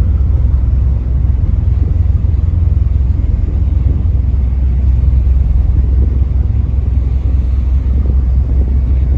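Boat engine running with a steady, deep low rumble.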